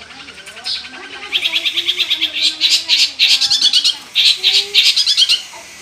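Long-tailed shrike (cendet) singing in fast, chattering bursts of rapidly repeated high notes. It gives a short phrase under a second in, then a run of dense phrases, and falls quiet near the end.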